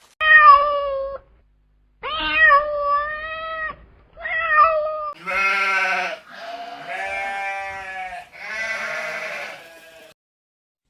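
A series of six animal calls: three short calls in the first half, then three longer, lower, quavering calls.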